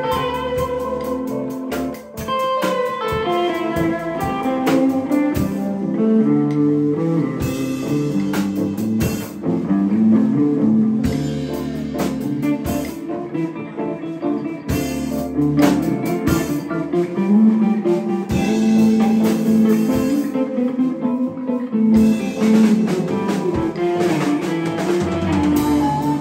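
Live band playing an instrumental blues passage: electric guitar taking a lead over drum kit and bass.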